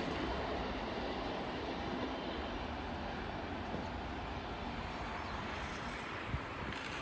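Freight train rolling by and moving away: a steady rumble of the wagons that slowly grows quieter, with one short knock about six seconds in.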